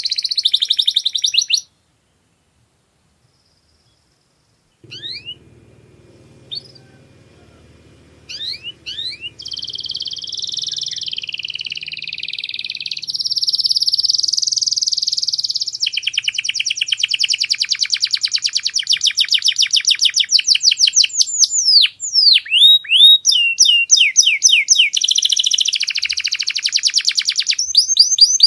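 Domestic canary singing high-pitched song of rolling trills and fast repeated notes. The song breaks off for about three seconds near the start, comes back as a few scattered chirps, and builds into continuous rapid trilling.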